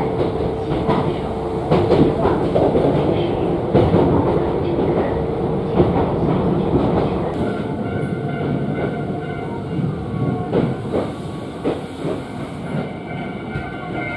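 Iga Railway electric train running, heard from inside the car: steady running noise with the wheels clacking over rail joints. A steady whine comes in about halfway through.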